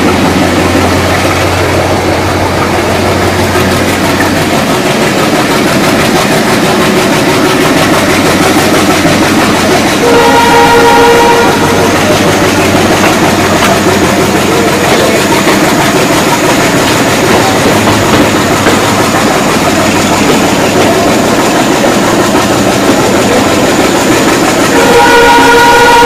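Alco WDM3A diesel-hauled express train gathering speed out of a station, heard from an open coach doorway: steady rumble and clatter of the wheels on the rails. The locomotive's horn sounds twice, a short blast about ten seconds in and a second one starting about a second before the end.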